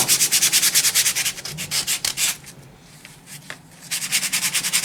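Fine sandpaper rubbed quickly back and forth by hand over a wooden cutout, about seven strokes a second. The strokes stop for a moment in the middle, then start again.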